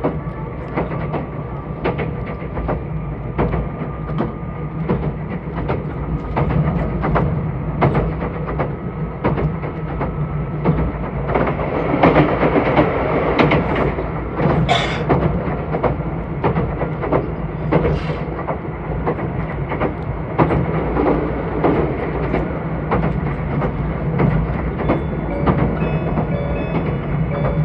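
Meitetsu 2000 series electric train running on the rails, heard from inside the car: a steady rumble with regular clicks of the wheels over rail joints and a faint motor whine slowly rising in pitch during the first ten seconds. The running noise swells for a few seconds about midway. Near the end an onboard chime begins.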